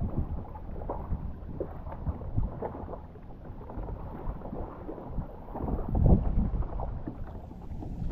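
Water lapping and sloshing around a kayak, with occasional small knocks and splashes and wind rumbling on the microphone, surging louder about six seconds in.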